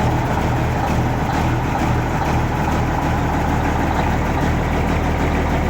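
Detroit Diesel Series 60 14-litre inline-six diesel idling steadily just after a cold start.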